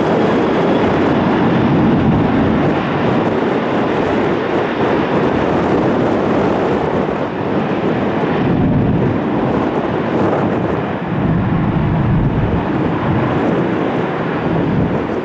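Jet aircraft engines running at a steady, loud level, mixed with strong wind buffeting the microphone.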